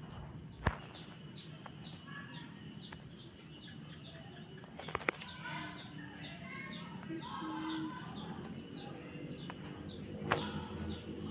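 Small birds chirping in quick, repeated high calls throughout, with three sharp knocks: about a second in, around the middle, and near the end.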